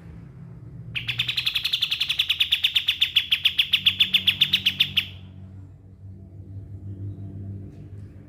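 Kapas tembak songbird singing one long rapid trill of evenly repeated high notes, about ten a second, growing louder for about four seconds and then stopping abruptly.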